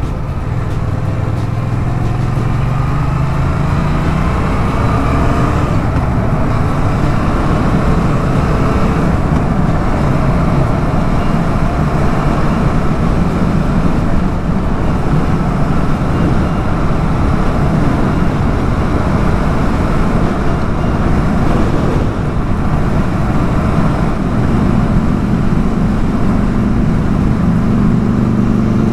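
Yamaha MT-07's parallel-twin engine pulling along the road under heavy wind noise on the microphone. The engine note rises over the first few seconds, then holds, and climbs higher again near the end.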